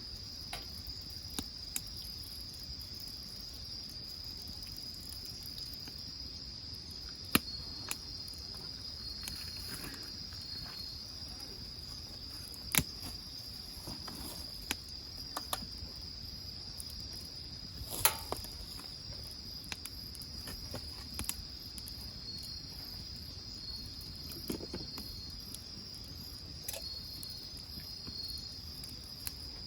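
Crickets trilling steadily and high, with sharp crackles and pops from a wood fire scattered through.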